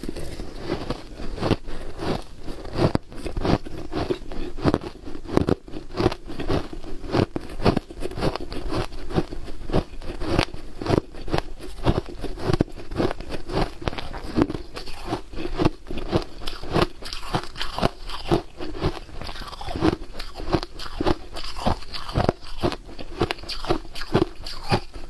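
A person biting and chewing ice close to the microphone: a steady run of sharp, crackling crunches, several a second.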